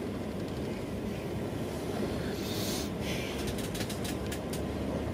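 Rhein-Ruhr Express electric multiple unit (Siemens Desiro HC) running at speed, heard from inside the carriage: a steady low rumble of wheels on rail. A brief hiss comes about two and a half seconds in, followed by a quick run of light clicks.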